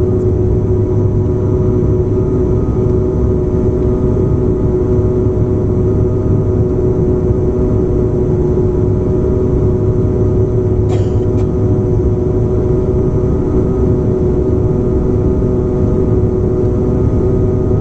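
Bombardier airliner's engines running in a loud, steady drone, with several constant tones held over a deep hum, during the landing in heavy rain. A short click comes about eleven seconds in.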